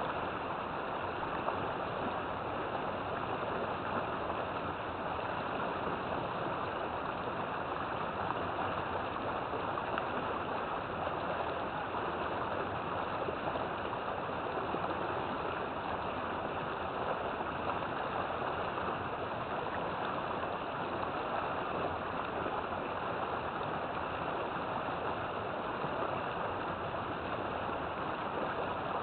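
River water flowing and rushing steadily, an even unbroken wash of sound.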